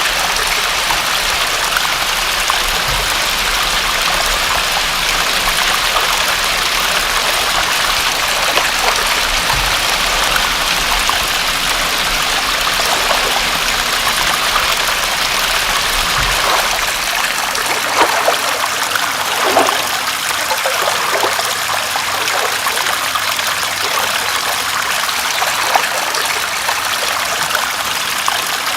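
Water running steadily, an even rushing hiss, with a few louder plops past the middle.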